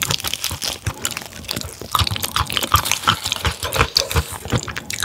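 A person chewing food close to the microphone, a dense run of sharp clicks and smacks.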